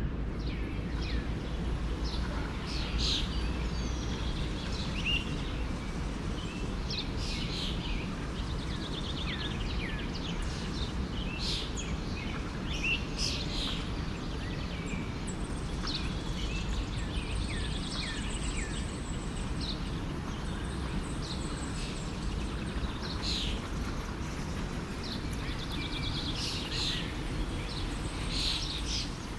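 Many small birds chirping and singing, short quick calls scattered throughout, over the steady rush of a flowing forest stream.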